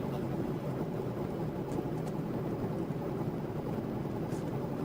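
Steady road and engine rumble of a moving car, with a few faint ticks.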